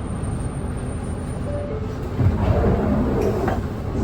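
Cabin running sound of a Nissan Diesel Space Runner city bus (PKG-RA274KAN) under way: steady diesel engine and road noise. The sound grows louder for about a second and a half from around two seconds in.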